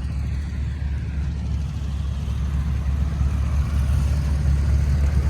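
Tractor engine running with a steady low rumble, growing gradually louder as it comes nearer.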